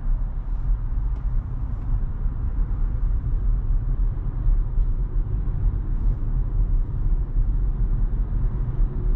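Steady low road and tyre rumble inside the cabin of a moving Tesla electric car.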